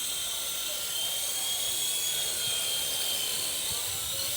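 Electric motor and rotors of a WLtoys V912 RC helicopter running with a steady high whine that rises slightly in pitch midway and eases back.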